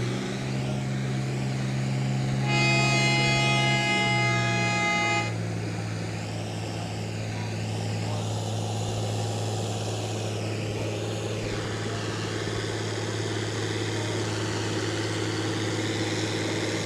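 Tractor engine running steadily at a tractor pull. A horn sounds once for about three seconds, starting about two and a half seconds in.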